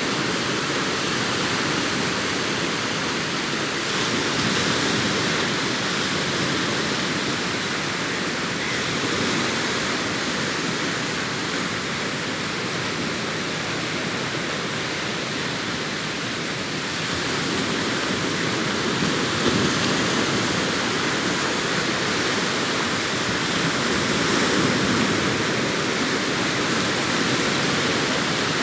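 Sea waves breaking on a beach: a steady rush of surf that swells a little every several seconds.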